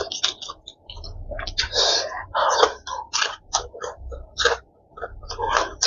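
Close-miked chewing and crunching of crispy deep-fried chicken, a fast irregular run of crunches.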